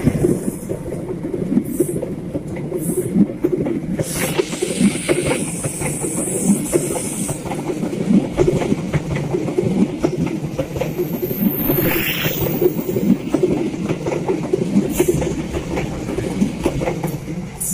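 Passenger coaches of an Indonesian express train rolling past close by: a steady rumble of steel wheels on the rails with repeated clacks as the wheels cross the rail joints.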